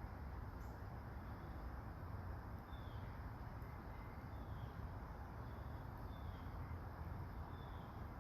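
A bird giving short, high, falling chirps about every second and a half, over a steady low rushing background noise.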